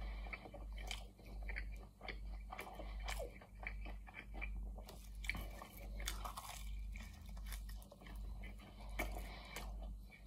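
Close-up chewing of a mouthful of chicken pie with its baked pastry crust: wet, crunching mouth sounds with small clicks, swelling and fading in a steady rhythm of roughly one chew a second.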